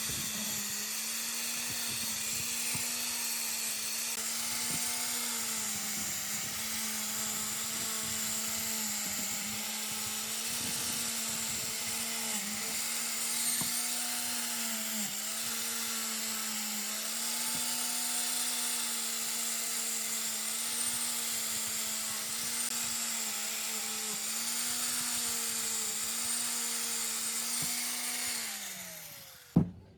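An electric power tool's motor running at a steady high pitch, sagging briefly every few seconds as it is loaded against the work. Near the end it winds down with a falling pitch, then cuts off.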